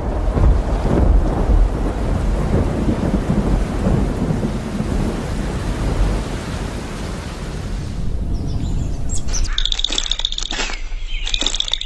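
Thunderstorm: rolling thunder over steady rain, fading after about eight seconds. After an abrupt change near the end, birds chirp in short repeated calls.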